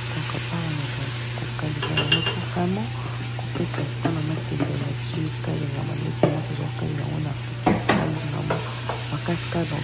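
Sweet potato leaves (matembele) sizzling as they fry in hot palm oil in a pot, stirred with a wooden spoon that scrapes and knocks against the pot, with sharper knocks about six and eight seconds in. A steady low hum runs underneath.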